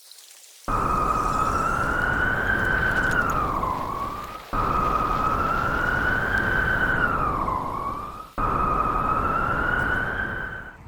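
Strong blizzard wind blowing with a whistle that slowly rises and dips in pitch over a rushing noise. It starts abruptly three times, each stretch running a few seconds.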